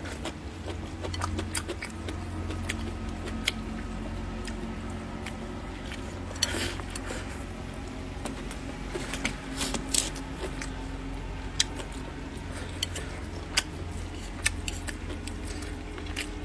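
Close-up chewing and crunching of a mouthful of stir-fried greens and pork skin, with many short crackles and a few sharper clicks of chopsticks against the bowl, over a steady low hum.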